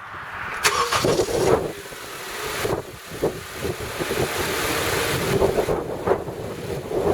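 Car engine running just after being started, its engine bay freshly sprayed with cleaner, with wind buffeting the microphone in uneven gusts.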